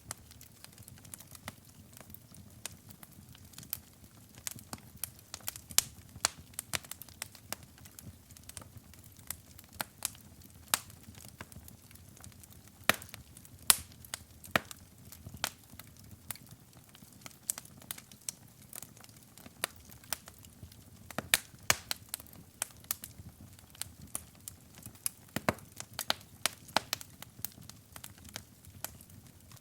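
Wood fire burning in a fireplace, with frequent irregular crackles and pops of varying loudness over a soft low rumble of the flames.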